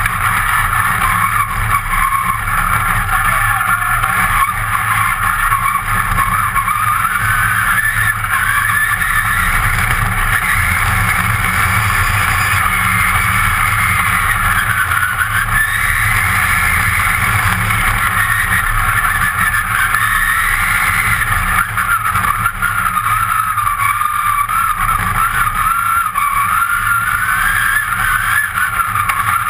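Rally car's engine heard from inside the cabin, driven hard, its pitch rising and falling again and again with throttle and gear changes, over a steady rumble from the car running on a loose dirt track.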